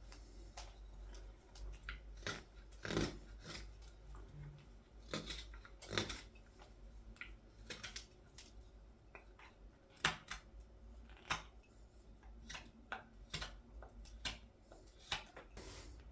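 Carving knife paring shavings off green wild cherry wood: short, crisp slicing cuts at an irregular pace of about one a second.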